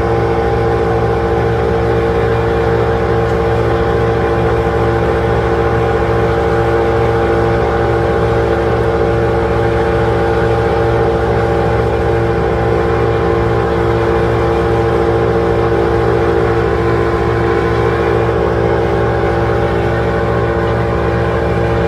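An engine running steadily at constant speed, with a strong, even hum and no change in load.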